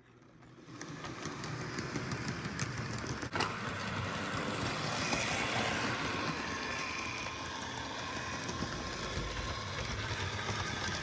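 HO scale model train running along its track: a steady motor hum and wheel noise with a few sharp clicks, starting up in the first second.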